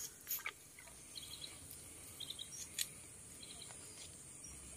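Quiet marsh ambience with faint, short high bird chirps repeating a few times. A few light rustles and splashes come from dry grass and shallow water as a mesh trap is worked into the pool.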